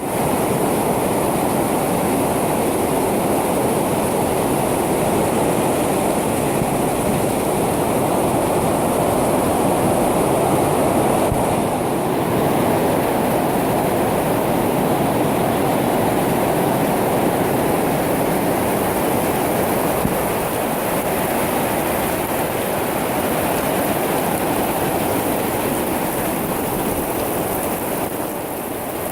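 Heavy rain pouring down in a steady, dense hiss, easing slightly near the end.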